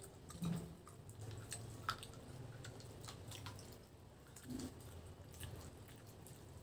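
Soft wet chewing and lip-smacking as boiled pork hock is eaten by hand, with a few scattered quiet clicks over a faint low hum.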